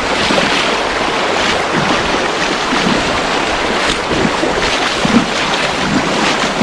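Steady rush of flowing creek water with a strong current, heard as a loud, even wash of noise.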